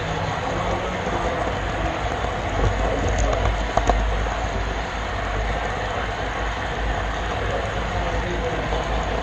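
HO-scale model train rolling along the layout track, heard from the GoPro camera car riding in it: a steady rumble of wheels on rail, with a few clicks about three to four seconds in.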